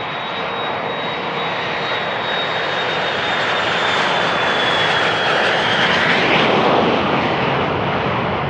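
Jet aircraft passing close by, its engine noise building to a peak with a steady high whine that drops in pitch about six seconds in as it goes past.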